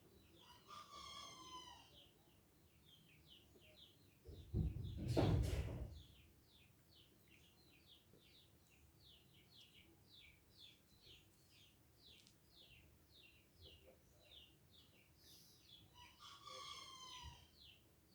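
Small birds chirping over and over, several short high chirps a second. Twice, about a second in and again near the end, a longer call of about a second and a half sounds, falling slightly in pitch. A loud knock comes about five seconds in.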